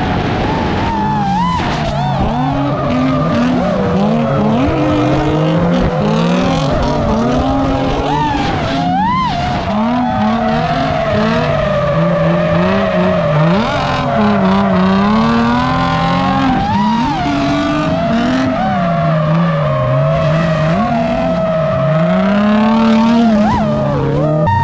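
Drift cars' engines revving up and falling back over and over, with tyre squeal and skidding as they slide sideways in a tandem run.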